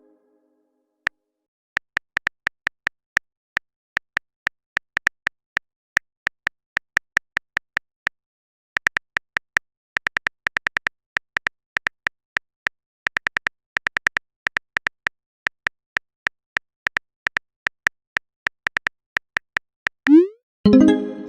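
Phone keyboard typing sound effect: many short, sharp taps in uneven runs with pauses between them, then a short rising swoosh near the end.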